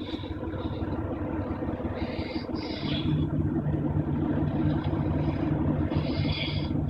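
Airliner landing: a steady rumble of engines and rolling noise. It grows louder about three seconds in, when a steady low hum joins.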